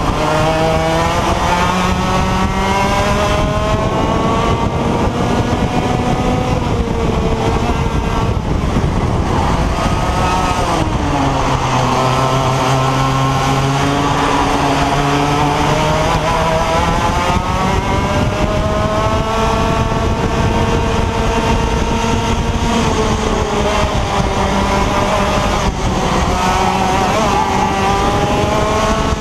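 IAME X30 125cc two-stroke kart engine running hard on track, its pitch climbing steadily under acceleration and dropping sharply several times as the throttle is lifted, then climbing again.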